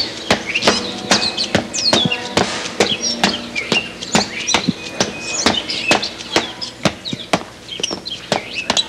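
Birds chirping over a quick, uneven series of sharp taps, several a second.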